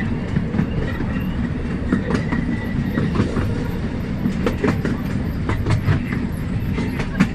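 Small amusement-park railway train running along its track: a steady low rumble from the wheels and carriages, with irregular clicks as the wheels pass over the rail joints.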